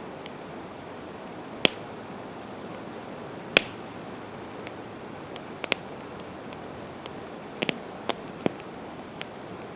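Campfire of split evergreen wood burning, with sharp crackles and pops of the burning logs over a steady hiss. About six pops, the loudest about three and a half seconds in and a quick double pop near the end.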